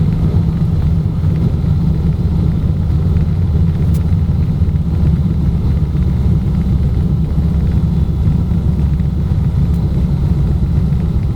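Junkers Ju 52's three radial engines running with a steady low drone, heard from inside the cabin.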